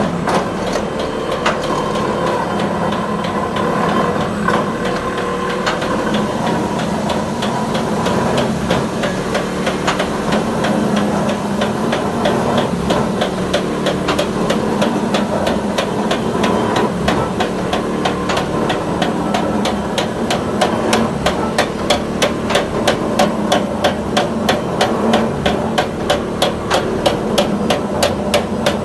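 A glass mosaic machine running: a steady motor hum under rapid, evenly spaced knocking strokes. The strokes grow sharper and more regular, several a second, through the second half.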